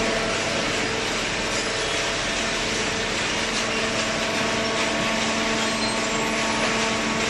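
Cardboard baler running: a steady machine hum with a strong even hiss, holding level with no breaks.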